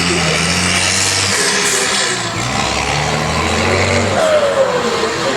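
Unimog rally-raid race truck engine running hard as the truck drives, its engine note shifting up and down every second or so under a broad rushing noise, with a falling whine about four seconds in.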